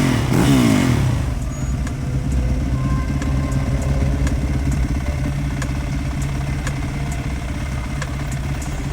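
A motor vehicle's engine running steadily at low revs. In the first second there is a louder swell with a falling pitch, like a vehicle passing close by.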